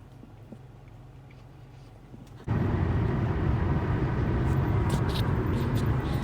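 A quiet, steady low hum with a few faint clicks, then an abrupt jump about two and a half seconds in to loud, steady road and engine noise inside a car moving at highway speed.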